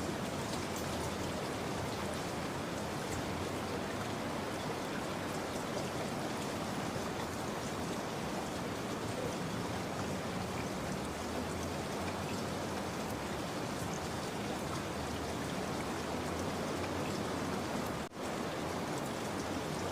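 Steady recorded rain: an even hiss of falling drops. It breaks off for a split second near the end.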